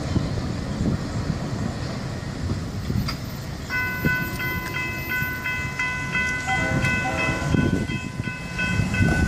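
Train rolling past with a steady low rumble of wheels on rail. About four seconds in, a high electronic ringing starts, pulsing about three times a second.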